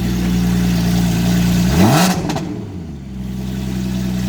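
Porsche 718 Spyder's 4.0-litre flat-six with an Innotech aftermarket exhaust idling, then blipped once about two seconds in: the pitch rises sharply, drops straight back and settles to idle.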